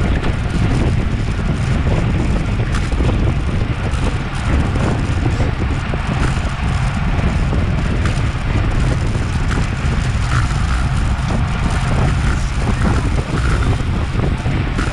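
Steady wind buffeting on a bike-mounted action camera's microphone at race speed: a loud, continuous low rumble with a fainter hiss above it.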